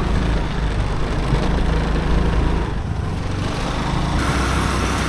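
Small motorcycle engine running steadily while riding.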